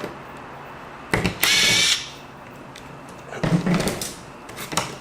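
A small electric screwdriver whirs for about half a second, backing out a small screw, preceded by a couple of clicks. About two seconds later come clattering knocks of small parts being handled, and then a few light clicks.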